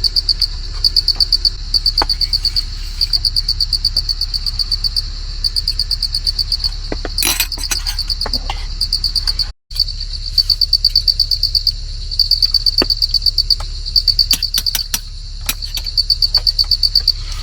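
Insects calling: a high, rapidly pulsing chirr in bursts of about half a second, repeating roughly once a second. A few faint clicks and taps are heard, and the sound drops out briefly about halfway through.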